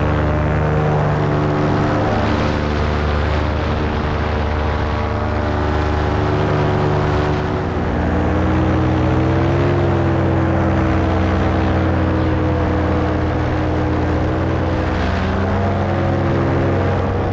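Paramotor engine and propeller running steadily in flight; the engine note drops slightly about eight seconds in, rises briefly, then settles.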